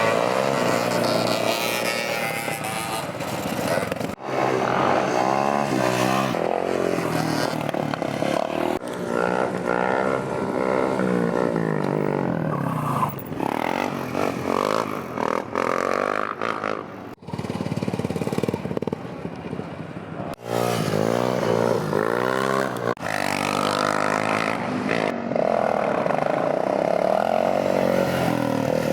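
Motorcycle engines revving, their pitch rising and falling over and over, with several abrupt breaks in the sound.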